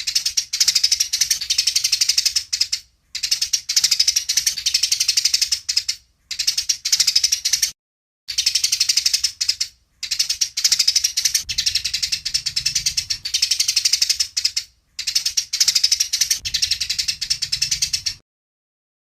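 Eurasian tree sparrows chattering in the fast, excited run of chirps they give when squabbling. The chirps come in bursts of one to three seconds with short pauses between them, and the sound cuts off abruptly near the end.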